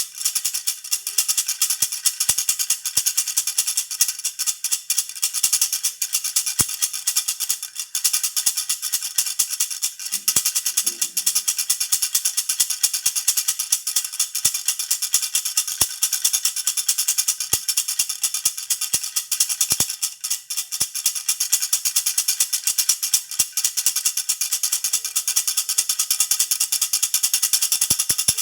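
Baby rattle (jhunjhuna) shaken steadily without pause, a fast, even, bright jingling.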